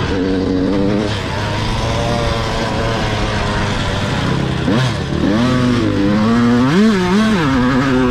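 Dirt bike engines running, then revving with a pitch rise about two-thirds of the way through and a couple of quick throttle blips near the end.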